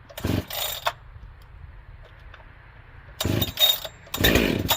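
Husqvarna 572XP two-stroke chainsaw idling and revved in three short throttle blips, the last rising in pitch: the first throttle-ups of a newly fitted carbide chain, run to see how much it stretches.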